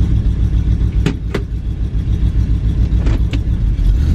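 Classic car's engine running while driving, heard from inside the cabin as a deep, pulsing rumble. Twice a pair of short knocks comes through, a quarter second apart.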